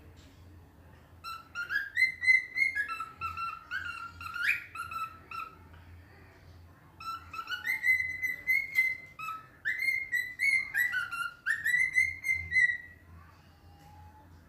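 Cockatiel whistling a song: clear whistled notes hopping between a lower and a higher pitch, in two phrases with a short pause between them.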